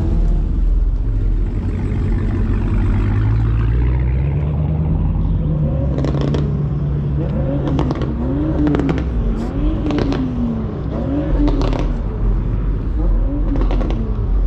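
Car engine running, then revved up and down over and over from about halfway in, its pitch rising and falling about once a second, with several sharp cracks among the revs.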